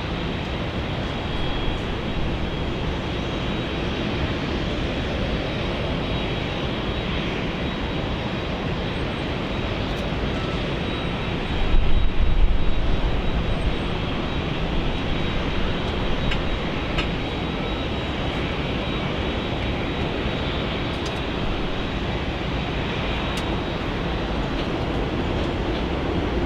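Jet airliner engine noise: a steady roar, with a brief louder low rumble about halfway through.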